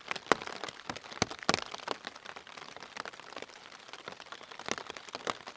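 Rain falling on a Fjallraven Abisko Lite 1 tent, heard from inside: a light steady hiss with irregular sharp taps of drops hitting the fabric.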